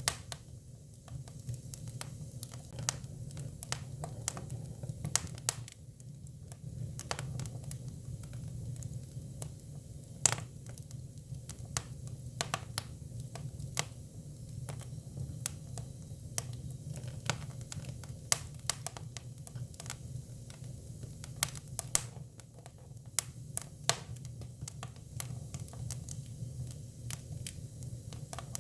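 Hinoki (Japanese cypress) firewood burning: irregular sharp crackles and pops over a steady low rumble of the fire.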